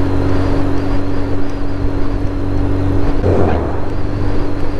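Suzuki motorcycle engine running steadily at cruising speed. About three seconds in, a truck in the opposite lane rushes past with a brief swell of noise.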